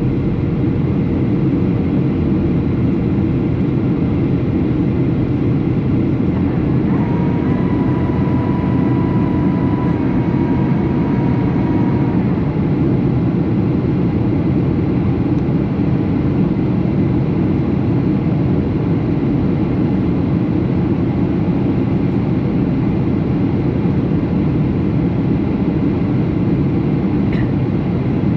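Steady in-flight cabin noise of a Boeing 737: a constant rush of airflow and engine rumble. About seven seconds in, a faint high whine joins for roughly five seconds, with a brief break in the middle.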